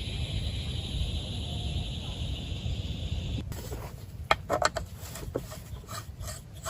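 Steady rain noise with a low rumble. About three and a half seconds in, the hiss cuts off suddenly and gives way to scattered sharp clicks and knocks.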